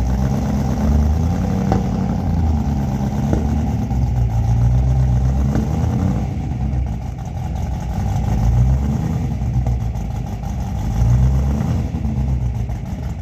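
Old Ford GT's engine running with a deep rumble, revving up and down in swells.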